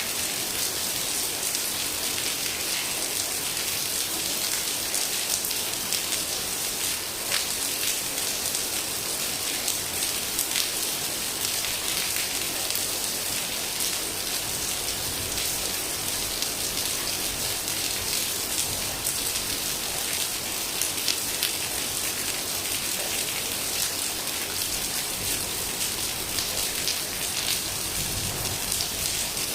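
Heavy rain falling steadily: a dense, even hiss with many sharp individual drop impacts.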